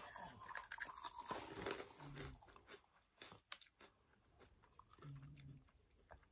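Faint crunching and chewing of crunchy Cheetos being bitten and eaten, with scattered sharp crunches mostly in the first few seconds. Two short low hums come at about two seconds and about five seconds in.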